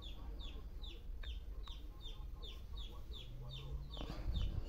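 A bird chirping over and over: short high chirps, each falling in pitch, about three or four a second.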